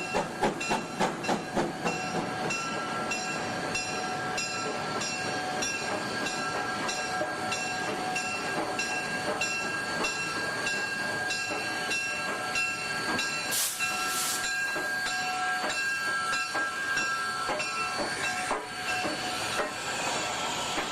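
Steam locomotive running with a train: quick rhythmic chuffs in the first two seconds, then a steady running sound, with two short bursts of steam hiss about two-thirds of the way through.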